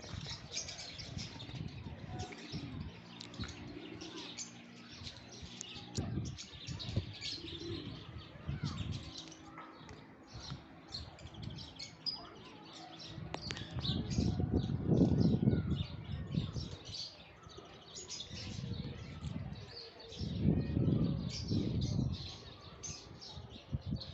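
Many birds chirping and calling at once, a dense run of short high chirps throughout. Two louder, low-pitched swells come in, about midway and again near the end.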